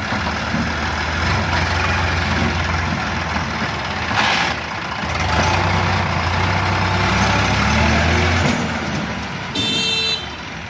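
Heavy diesel engine running steadily under load, dropping away about eight and a half seconds in. A short, high-pitched electronic horn beep sounds near the end.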